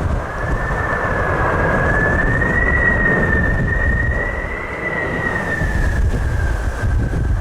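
High whine of a landing jet airliner's engines, slowly wavering up and down in pitch, over heavy wind rumbling on the microphone.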